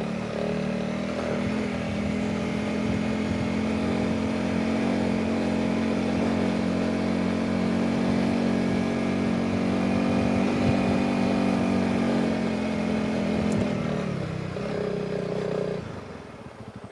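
Honda CRF300 Rally's single-cylinder engine pulling at a steady speed under way, with wind noise. Near the end the engine note falls as it slows, then drops to a quieter, pulsing idle.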